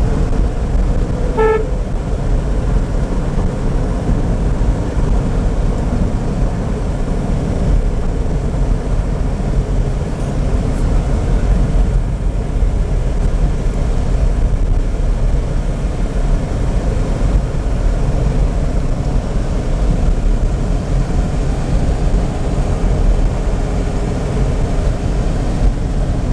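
Steady road and engine rumble of a moving car, heard from inside, with one short horn toot about a second and a half in.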